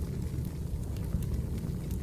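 Recorded wood fire burning: a steady low rumble with a few faint crackles.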